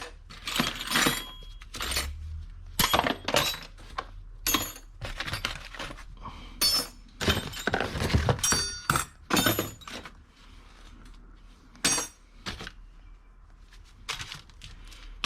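Small metal hand tools clinking and knocking together as they are rummaged through and sorted, with a short quieter stretch in the middle.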